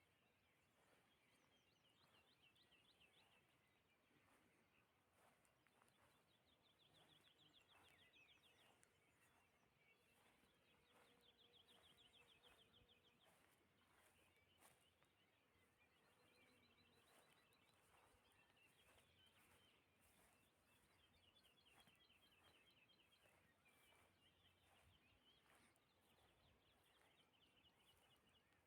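Faint birdsong: several birds singing rapid, trilled phrases over and over, over quiet countryside ambience.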